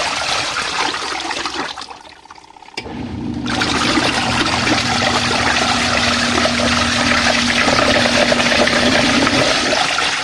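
Portable twin-tub washing machine running its wash cycle: motor hum with water churning in the tub. The churning stops a little under two seconds in and starts again about a second and a half later.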